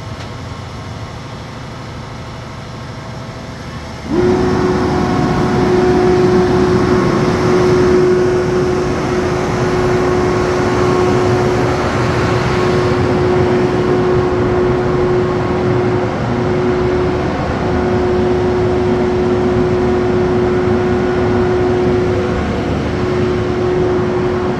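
Crane truck's engine and hydraulics working. About four seconds in it jumps suddenly to a loud steady drone with a constant whine, and that holds to the end.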